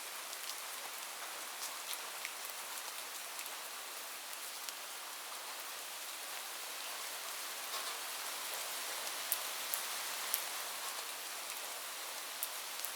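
Steady heavy rain falling on a roof, a constant hiss with many sharper single drop taps scattered through it and a few louder ones about two-thirds of the way in.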